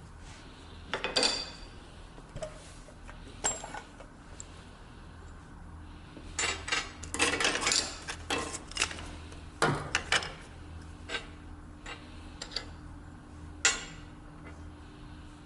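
Hard metal pieces clinking, knocking and rattling against each other in irregular handling, with a short cluster of rattles a little past the middle, over a steady low hum.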